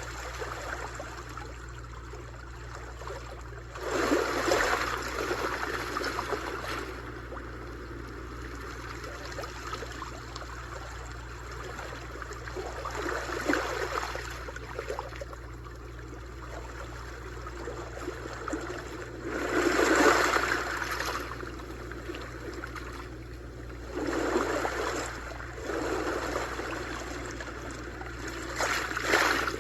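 Sea waves washing in on the shore, each swell rising and fading over a second or two. About six surges, the loudest around four seconds in and near the middle, over a steady low rumble.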